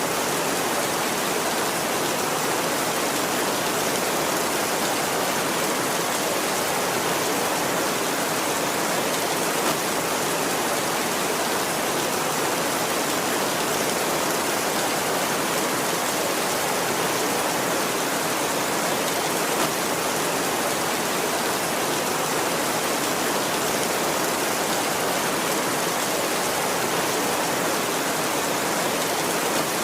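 Heavy rain falling steadily on a tin roof, an even hiss with no thunder in it.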